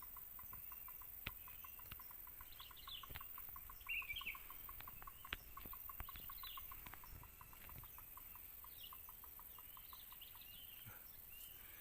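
Birds calling in the forest: a steady run of short, evenly spaced notes at one pitch, about five a second, that stops shortly before the end, with scattered higher chirps over it and a few faint clicks.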